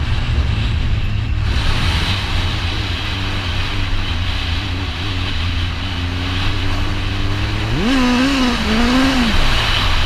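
Motorcycle engine running while riding, over a constant low rumble. About eight seconds in the engine note rises sharply and wavers up and down as the throttle is worked.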